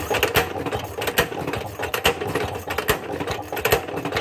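Maytag washing machine's two-stroke gas engine being turned over repeatedly without firing, to draw fuel up and prime the fuel system on a cold start: a steady mechanical clatter of repeated sharp strokes.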